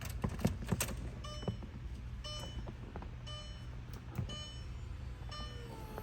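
The 2001 Audi TT's warning chime beeping about once a second, after a few clicks at the start. Near the end an electric motor starts with a steady whine.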